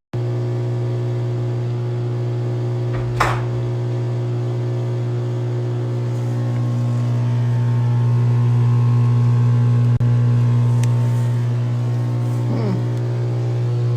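COMFEE' portable countertop dishwasher running a wash cycle, its pump motor giving a loud, steady hum, with a single sharp click about three seconds in.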